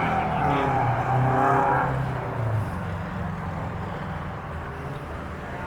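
A car engine running close by, its low hum strong for about two seconds and then growing fainter.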